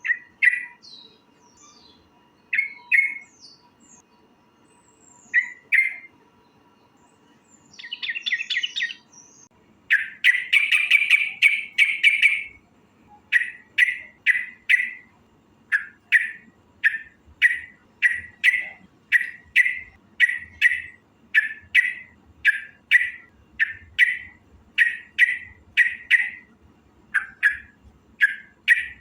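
Yellow-vented bulbul (trucukan) calling: a few short chirps in the first six seconds, a fast chattering run about eight seconds in and a longer one from about ten to twelve seconds, then a steady series of short chirps about two a second.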